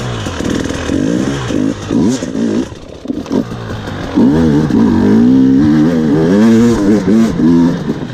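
KTM 300 XC-W two-stroke single-cylinder dirt bike engine revving up and down under throttle on a hill climb. It eases off briefly about three seconds in, then pulls hard with the revs rising and falling.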